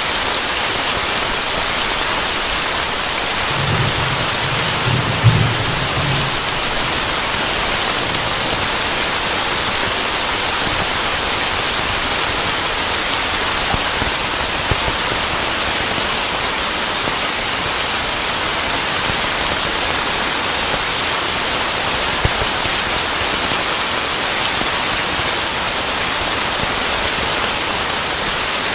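Steady heavy rain falling, with a low roll of thunder rumbling a few seconds in, peaking sharply before it fades.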